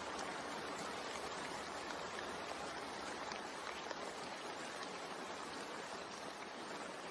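Steady rain falling: an even hiss of drops, with a few single drops ticking out of it.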